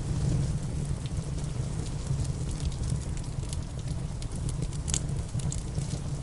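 Wood fire crackling, with scattered sharp pops and the loudest about five seconds in, over a steady low rumble and the hiss of rain.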